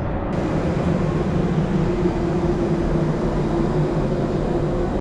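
Steady vehicle running noise: a continuous rumble with a low hum held at an even pitch.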